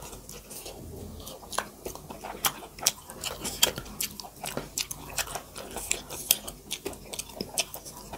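Close-up eating sounds of two people chewing makai dhido (maize porridge) and chicken curry, with sharp, irregular mouth smacks and clicks several times a second.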